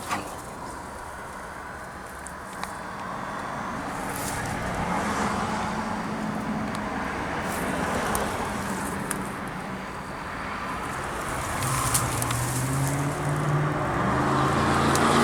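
Motor vehicle traffic passing, a steady engine and tyre hum that swells and fades several times and grows louder near the end.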